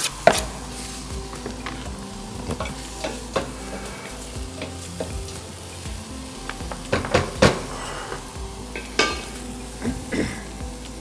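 Chopped onions and leeks sizzling as they fry in a stainless-steel pot, stirred with a wooden spoon that knocks against the pot now and then, most loudly a few times in the second half.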